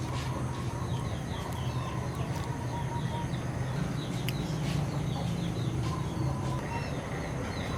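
Chickens clucking and birds chirping in many short, quick calls over a steady low hum.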